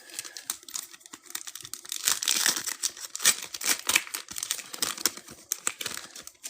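A trading-card pack wrapper crinkling and tearing open, with a run of small clicks and crackles as the cards inside are handled.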